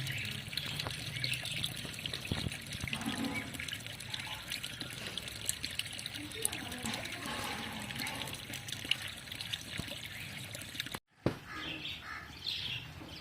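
Water trickling and splashing, dotted with many small clicks. After a sudden cut near the end, a small bird chirps several times.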